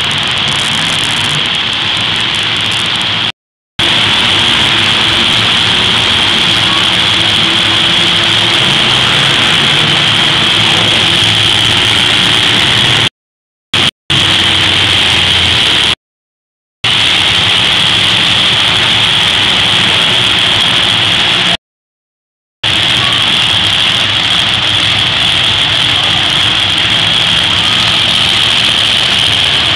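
Monster truck engines running loud and steady, cut by several brief, sudden gaps of silence.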